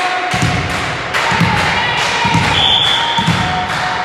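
Dull thuds about once a second over a steady ticking of about three clicks a second.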